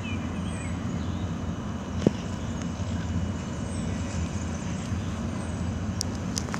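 EP07 electric locomotive hauling an Intercity train, approaching slowly along the platform with a steady low rumble. A sharp click comes about two seconds in.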